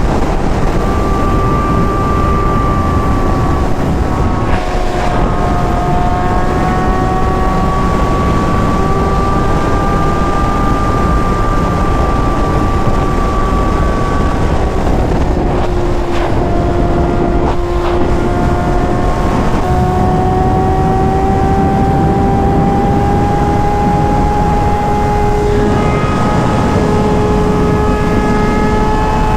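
Sport motorcycle engine at a steady highway cruise, under a heavy rush of wind on the rider's microphone. The engine pitch drops about halfway through, then climbs slowly as the bike speeds up again.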